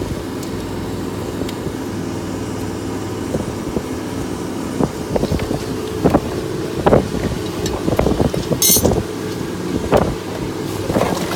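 An engine running steadily, with irregular clattering knocks from about three seconds in and a brief high hiss near the end.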